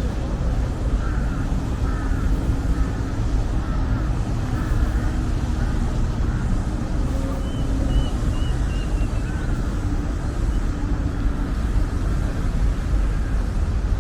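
Steady low rumble of city traffic, with birds chirping now and then and a short run of high chirps about eight seconds in.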